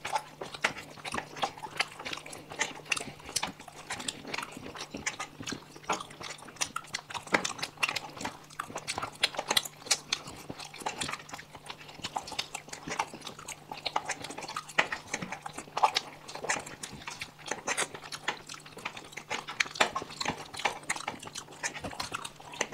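Close-miked chewing and wet mouth sounds of people eating spicy noodles and pasta: a constant, irregular run of smacks and clicks over a faint steady hum.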